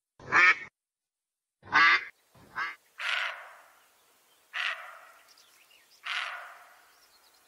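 A duck quacking, three short calls in the first few seconds. About three seconds in the sound changes to three harsh, drawn-out deer calls, each trailing off slowly.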